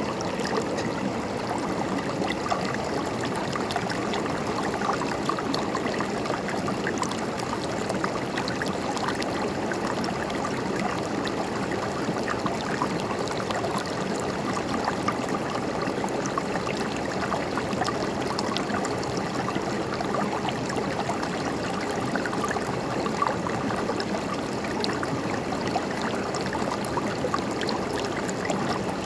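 River water flowing steadily, a continuous rushing with constant small gurgles and splashes.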